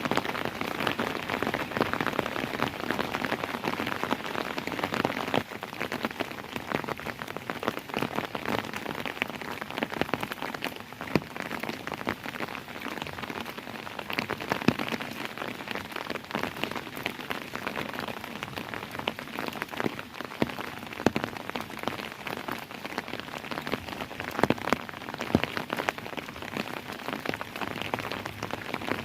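Steady rainfall with many individual drops pattering and ticking on a surface, slightly heavier in the first few seconds.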